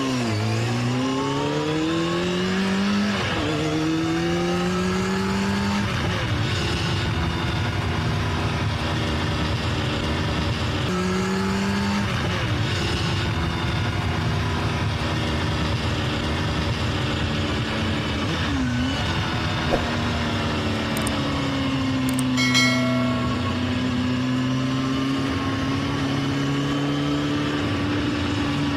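Racing video game's engine sound effect, revving up and shifting through gears, the pitch climbing and dropping back at each shift, then holding a steady, slowly swelling drone. A short bright sound cuts in briefly about 22 seconds in.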